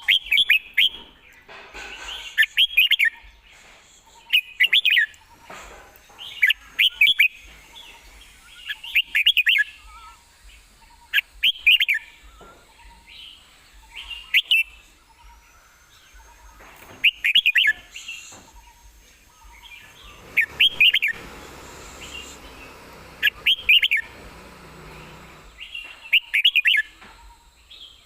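Red-whiskered bulbul singing: a short, loud whistled song phrase repeated about every two and a half seconds.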